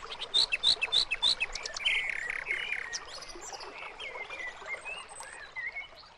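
Birds chirping and singing: a quick run of short, high chirps in the first couple of seconds, then fainter scattered calls as the sound fades.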